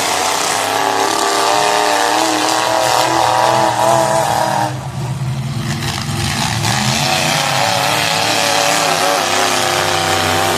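Demolition derby car engines revving hard, a loud engine drone that wavers up and down in pitch. It drops away briefly about halfway through, then picks up again.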